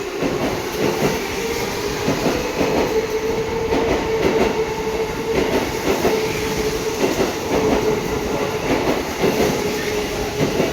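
Tokyo Metro 07 series electric train pulling out and gathering speed. A steady motor whine climbs slightly and then holds, while the wheels clack irregularly over rail joints.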